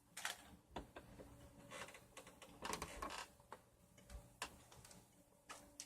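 Faint, irregular clicks and short rustles from movement in bed and handling of the recording phone, over a faint steady low hum.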